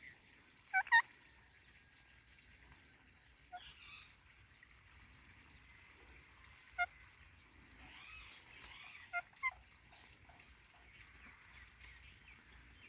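Parakeets giving short, sharp squawking calls. Two loud calls come close together about a second in, then scattered single calls and a pair of calls later. Soft, warbling chatter comes a little before the pair.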